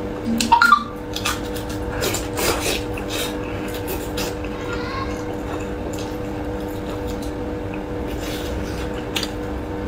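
Close-miked chewing and wet lip-smacking of soft, fatty braised pork, with scattered short clicks. The loudest is a brief burst about half a second in. A steady hum and hiss sit underneath.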